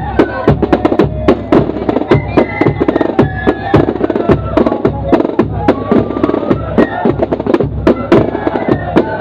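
A corps of drums playing a march: snare drums beating rapid rudiments and rolls close by, with flutes carrying the melody.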